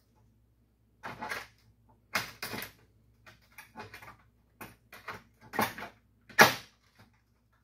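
Metal grille bar pieces clattering and scraping as they are forced into alignment by hand, in a string of irregular short bursts. The loudest comes about six seconds in.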